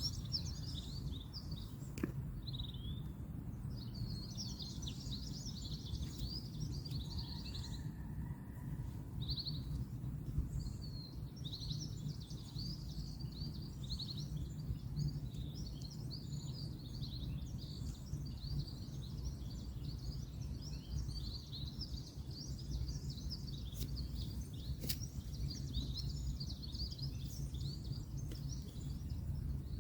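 Many small birds chirping and twittering continuously over a steady low rumble of distant road traffic, with a few faint sharp clicks.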